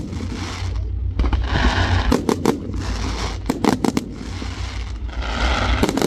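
Fireworks going off: several sharp bangs in pairs, and spells of hissing crackle, with a steady low rumble underneath.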